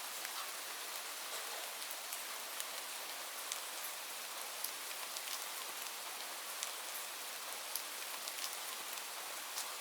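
Steady rain falling, a continuous hiss with many distinct drops ticking sharply on a hard surface.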